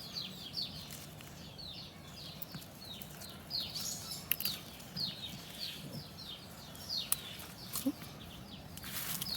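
Birds calling outdoors: a run of short, high chirps that each slide downward, a few every second, with a few sharp clicks among them.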